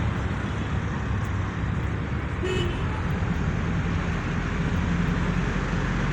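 Road traffic, a steady low rumble of vehicles, with one short, high toot of a horn about two and a half seconds in.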